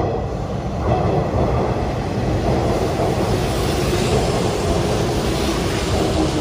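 Hanshin Electric Railway train running into the station and along the platform close by, a steady loud wash of wheel and running noise.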